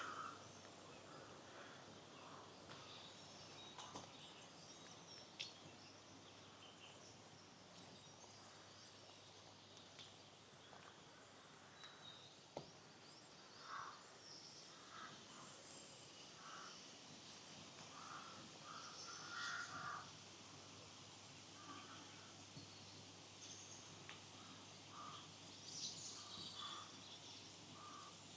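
Faint birds calling, short repeated calls and higher chirps scattered through, coming more often in the second half, over a low steady rush of running stream water, with a few faint clicks.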